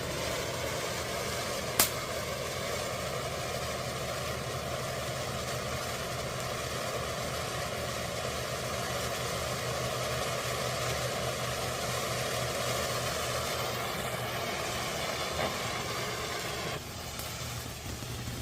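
Monkey Mania 3-minute firework fountain spraying with a steady hiss, with one sharp pop about two seconds in. The hiss drops off a little near the end.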